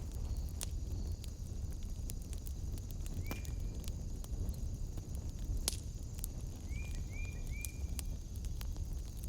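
Wood fire in a fireplace crackling, with scattered sharp pops over a low rumble of burning. A steady high-pitched trill runs underneath, and a few short chirps come once about three seconds in and three times near seven seconds.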